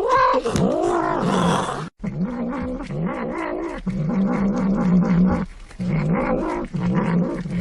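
A pet animal making long, drawn-out low calls. A pitch-bending call in the first two seconds cuts off suddenly. It is followed by long steady low calls with short breaks between them.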